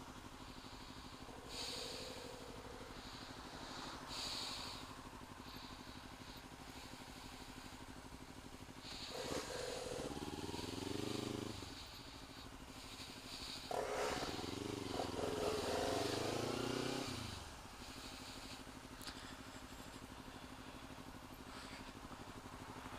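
Motorcycle engines heard faintly, with two spells of louder engine sound rising and falling in pitch, about ten and fifteen seconds in, over a steady low hum.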